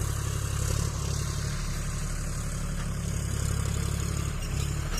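John Deere 5050D tractor's three-cylinder diesel engine running steadily.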